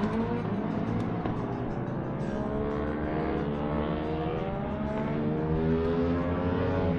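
Go-kart engines running on a track, their pitch slowly rising and falling.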